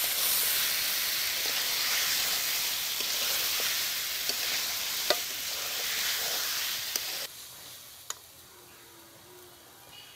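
Chicken pieces sizzling as they fry in spiced masala in a karahi, with a spatula stirring and scraping them and a few sharp clicks of the spatula on the metal pan. The chicken is being mixed into the cooked-down masala. About seven seconds in, the sizzle suddenly drops to a much quieter level.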